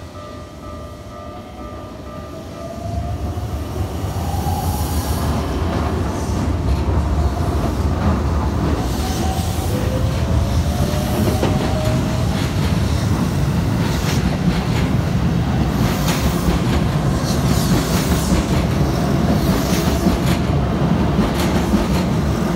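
Keikyu 600-series electric train passing close by at a level crossing. The crossing bell rings at first; about three seconds in, the train's loud rumble of wheels on rail takes over, with clatter over the rail joints and a whine that rises in pitch.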